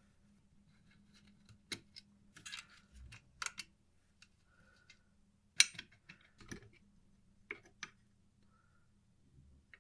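Scattered light clicks and knocks at an irregular pace, as of small tools and clock parts being handled on a workbench, the sharpest knock about halfway through, over a faint steady hum.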